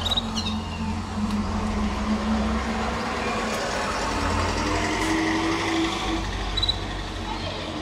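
A steady low rumble with a droning hum, engine-like, and a canary chirping briefly at the very start and again about seven seconds in.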